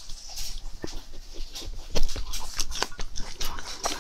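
Close-miked chewing and biting on grilled meat pulled from skewers, made up of irregular wet clicks and smacks. The loudest bite comes about halfway through.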